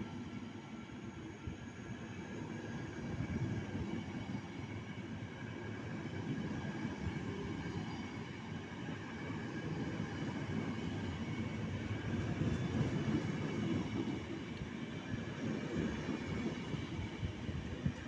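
A train running by: a steady rolling rumble with faint steady higher tones over it, growing louder past the middle.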